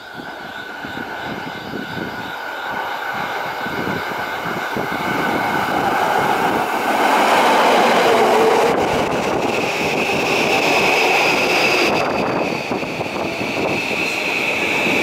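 Electric commuter train running in alongside the platform, its rumble growing louder as it comes past. About two-thirds of the way in, a steady high whine joins.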